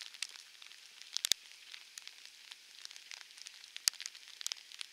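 Steady rain falling: a fine hiss thick with small raindrop ticks, with two sharper ticks about a second in and near four seconds.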